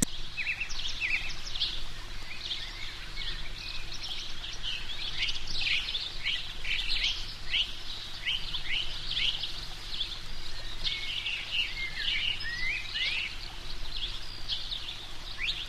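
Birds chirping: a dense run of short, quick calls, several overlapping, over a faint steady low hum.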